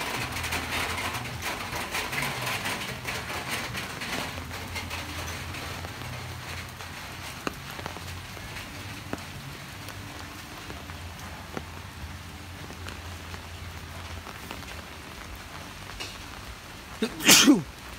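Rain falling on wet pavement and foliage, heavier for the first few seconds and then lighter, with a few faint clicks. A brief, loud sound with a sweeping pitch cuts in about a second before the end.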